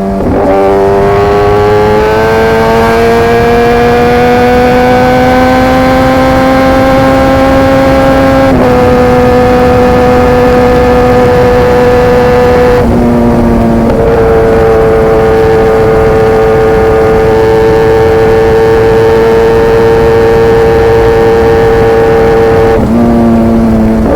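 Kawasaki ZX-10R inline-four sport bike running under load through an SC-Project CRT carbon exhaust, heard while riding. The revs climb steadily for several seconds, then step down at a gear change about eight seconds in. It then cruises at fairly steady revs, with brief dips in pitch near the middle and near the end.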